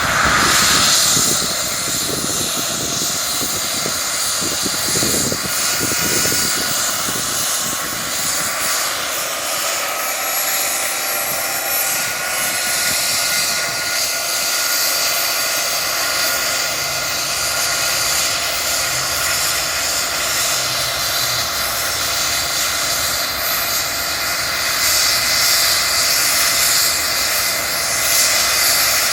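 Rescue helicopter starting up: its turbine engine whines, and one tone climbs in pitch about a third of the way in as the engine spools up. A steady rushing roar of engine and rotor noise runs underneath.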